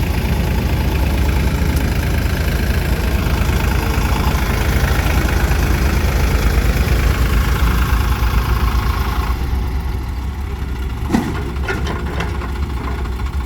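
Heavy diesel machinery engine running steadily with a fast, even chug. About nine and a half seconds in, the higher-pitched part of the noise drops away, and a single sharp clank sounds about two seconds later.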